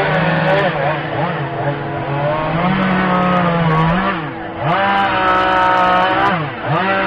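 Two-stroke chainsaw revving. The throttle is opened and released several times, so the engine note climbs, holds high for a second or so, and drops back, about three times.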